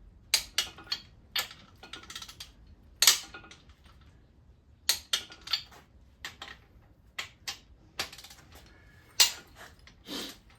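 Irregular sharp metallic clicks and clacks of hand tools on the engine block: a ratchet and socket working the crankshaft main cap bolts during torquing.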